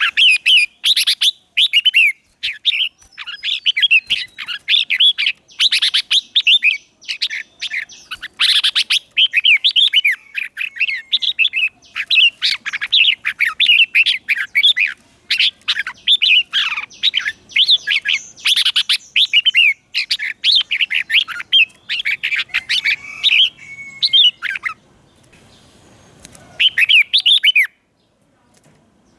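Red-whiskered bulbul singing: rapid runs of bright, quickly rising and falling whistled notes, phrase after phrase, with a short break about 25 seconds in.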